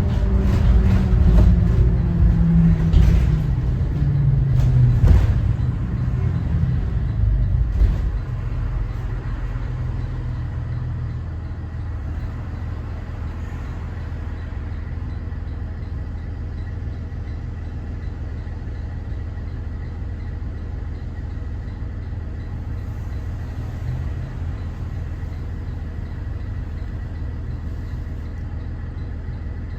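Cummins ISB 6.7 inline-six turbodiesel of a 2014 Thomas Saf-T-Liner C2 school bus, falling in pitch as the bus slows, with a few knocks and rattles. About eight seconds in it settles to a steady idle.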